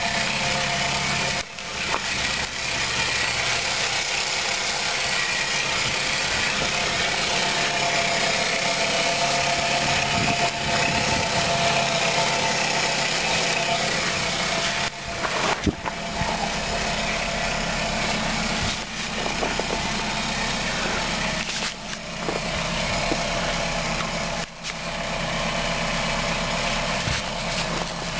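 A car engine idling steadily, with a few brief dips in level.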